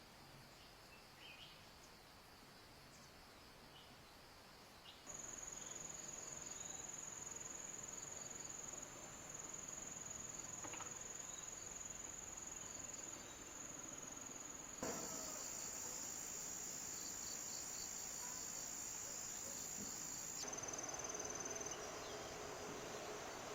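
Insects trilling steadily in one high, thin, unbroken tone; the sound jumps in loudness and pitch a few times where the footage changes.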